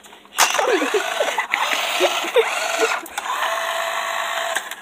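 Electric RC car's motor and gearbox whirring loudly, with the whine rising and falling as it is throttled, starting about half a second in.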